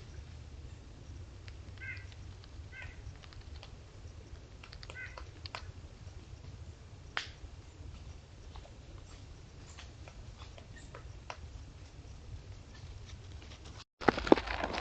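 A few faint, short high chirps from a small animal, over a low steady rumble with scattered light clicks and taps. The sound cuts out briefly near the end.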